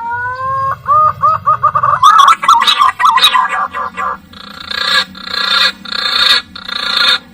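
Green pigeon (punai) song: a rising whistle, then a quick run of looping whistled notes that tumble into a jumbled series. It ends in a string of harsh, buzzy notes, each about half a second long.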